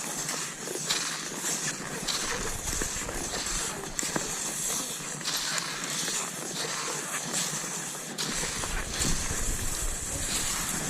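Cross-country skis hissing and scraping over snow, with a crunch or knock about once a second from strides and pole plants.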